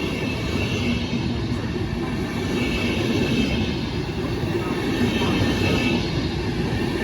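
A train rolling along the track, a steady dense rumble with a faint high wheel squeal that comes and goes.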